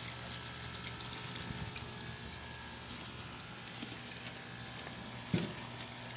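Pond aerator's bubbler motor buzzing steadily, with water bubbling from the bubblers. A single low thump about five seconds in.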